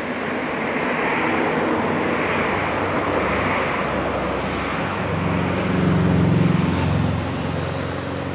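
BVZ narrow-gauge electric train running through the valley: a steady rushing rumble, with a low hum that swells about five seconds in and fades again about two seconds later.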